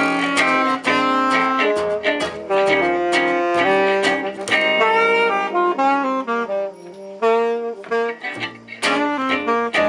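Live jazz manouche: a reed instrument plays a fast melodic line over guitar accompaniment, easing off briefly about seven seconds in.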